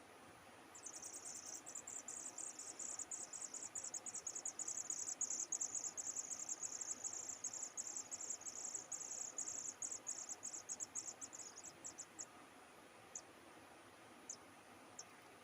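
Insect, cricket-like, trilling: a fast, high-pitched run of pulses lasting about eleven seconds, thinning out and ending in a few separate clicks.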